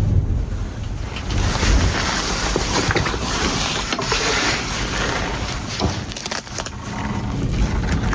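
Blizzard wind rushing steadily, with a heavy low rumble that swells and eases in gusts and a few faint clicks.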